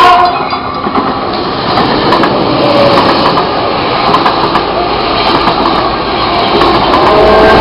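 Metrolink commuter train passing close by: its horn cuts off a moment in, then a loud, irregular rumble and rattle of wheels on the rails.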